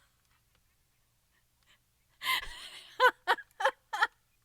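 Near silence for about two seconds, then a woman laughs: a sharp breathy gasp followed by four short, quick "ha" bursts.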